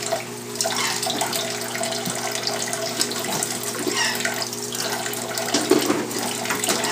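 Kitchen tap running steadily into a sink, its stream splashing over an African grey parrot bathing under it. A steady low hum sits beneath the water.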